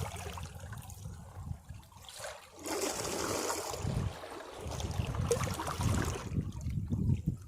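Sea waves breaking against rocks. A low surge comes first, then a hissing wash of water over the rocks from about two and a half seconds in to about six seconds, fading toward the end.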